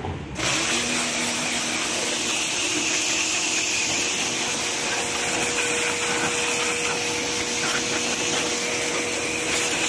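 Electric pressure washer running steadily: a constant rushing spray over a faint motor hum.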